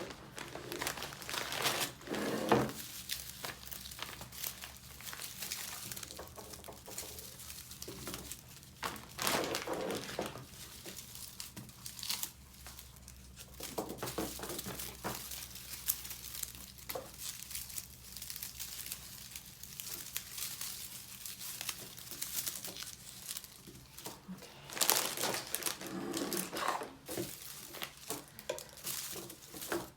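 Crinkling and rustling of something being handled, in irregular bursts, loudest about two seconds in and again about twenty-five seconds in.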